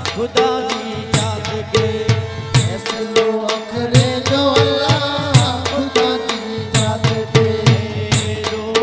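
Instrumental interlude of a Kutchi osani devotional song: a tabla-style hand drum keeps a steady beat, its bass strokes sliding down in pitch, under a sustained melody line.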